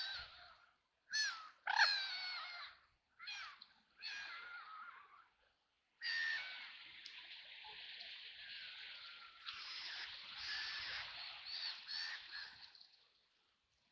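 Ducks quacking: five harsh, separate quacks in the first five seconds, then a dense run of overlapping quacking for about seven seconds that stops abruptly.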